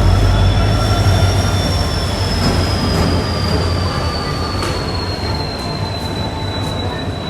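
Train wheels squealing against the rails: one high steady screech that slowly falls in pitch, over the low rumble of the moving train, which eases after the first couple of seconds.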